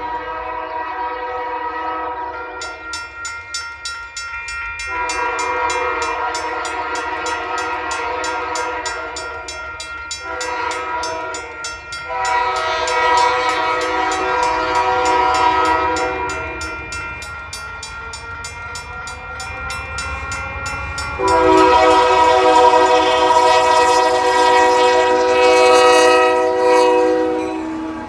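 Locomotive multi-note air horn sounding a series of blasts, one of them short, the last long and loudest near the end, with a fall in pitch in a gap as the train passes. Steel wheels clack rapidly over the rail joints through the first part.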